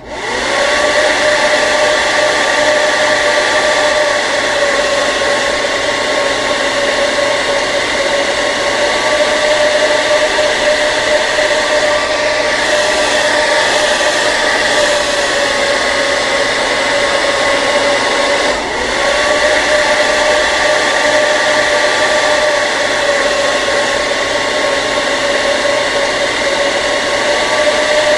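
Hair dryer running steadily, a constant motor whine over the rush of blown air, starting up right at the beginning and dipping briefly once about two-thirds of the way through.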